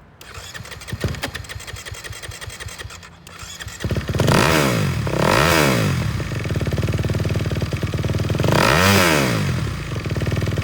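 Fuel-injected 2021 Kawasaki KX250 four-stroke single-cylinder motocross engine with a Pro Circuit exhaust: cranking on its electric starter for about three seconds, catching about four seconds in, then revved in three sharp throttle blips that rise and fall back to a fast idle.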